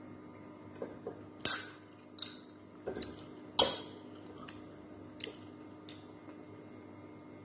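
A person chewing crisp fried galunggong (round scad) close to the microphone, with irregular sharp crunches and mouth clicks. The loudest crunches come about one and a half and three and a half seconds in, with fainter clicks spread through the rest.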